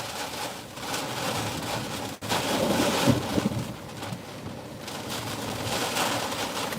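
Heavy rain and strong wind gusts from a severe thunderstorm pounding a vehicle, heard from inside it. After a brief break about two seconds in, the noise comes back louder and gustier.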